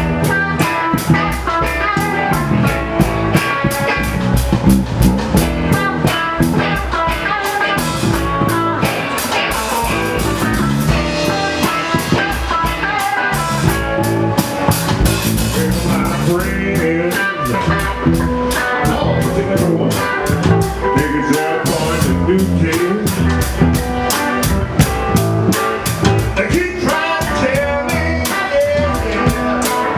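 Live blues-rock band playing an instrumental passage: guitar over a steady drum-kit beat.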